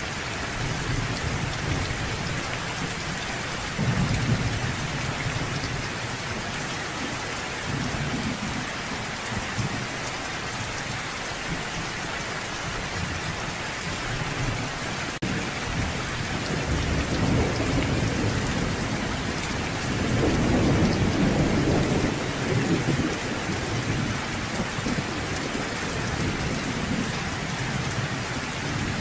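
Steady rain falling with low thunder rumbling underneath, swelling about 4 seconds in and again more strongly around the middle.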